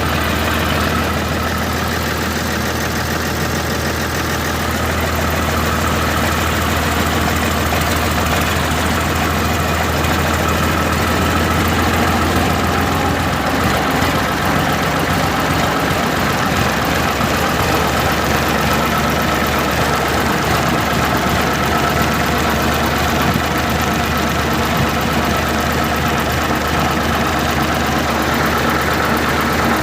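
Tractor engine running steadily; a little before halfway, its low hum shifts as the engine speed or load changes.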